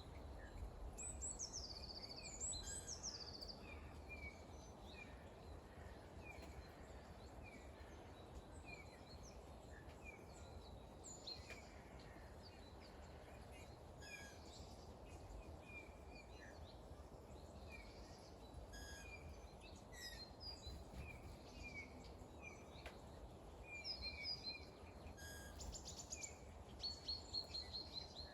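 Small birds chirping repeatedly over a steady low background rumble, with a few higher whistled calls near the start and again near the end.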